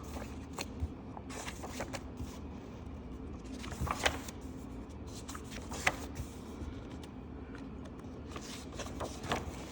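Paper pages of coloring books being handled and turned: scattered short rustles and light knocks, the loudest about four and six seconds in, over a steady low hum.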